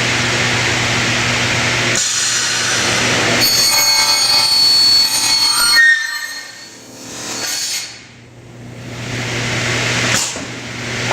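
Scotchman SUP-600 NF up-cutting circular saw running, its blade cutting through a non-ferrous extrusion with a high ringing screech from about two seconds to six seconds in. After that the cut sound drops away to the motor's steady hum, with a click shortly before the end.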